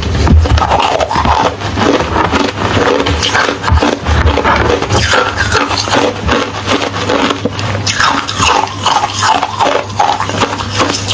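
Ice being chewed close to the microphone: a dense, continuous run of crisp cracks and crackles, with heavier crunching bites near the start and about four seconds in.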